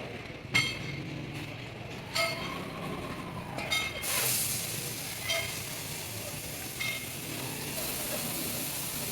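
Metal being struck in a truck repair workshop: sharp ringing clinks about every second and a half, with a steady hiss coming in about four seconds in.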